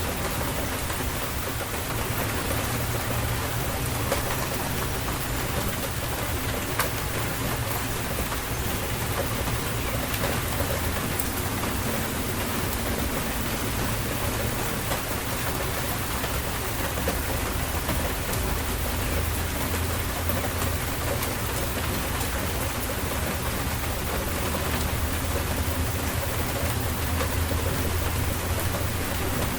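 Steady rain falling on surfaces, a dense even hiss with scattered drop ticks over a low, steady rumble.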